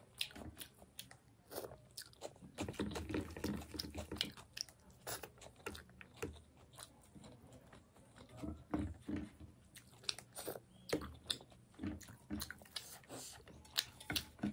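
A person chewing a mouthful of fish curry, with wet smacks and short, irregular crunchy clicks.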